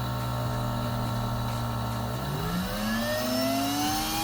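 Bee vacuum motor running at a steady low speed, then about halfway through spinning up, its whine rising smoothly in pitch.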